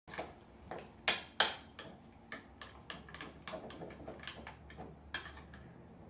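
Metal spoon clinking and tapping against a glass bowl as a thick yogurt sauce is stirred. Two sharp clinks come about a second in, then a run of lighter taps, and another sharp clink near the end.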